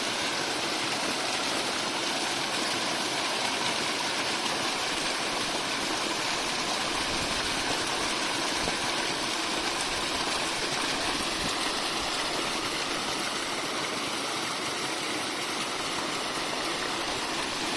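Mountain spring water running in a steady stream, an even, unbroken water sound.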